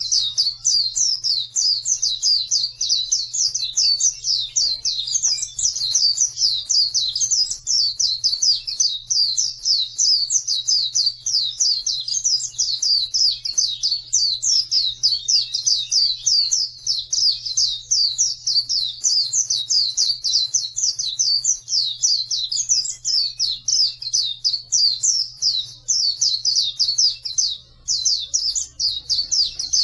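White-eye (pleci) singing a fast, unbroken high twittering song, many quick chirps a second, with a brief pause near the end.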